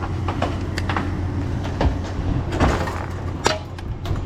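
Steady low vehicle engine and road rumble, with several scattered sharp knocks and rattles.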